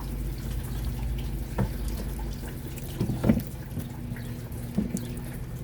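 Windshield washer fluid running out of the reservoir's open pump hole and splashing into a bucket, with a few light knocks.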